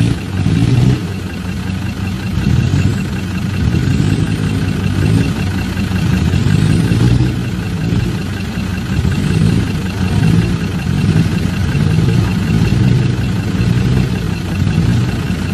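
Off-road 4x4's engine running at low speed, its revs rising and easing every second or two as it works over rough ground.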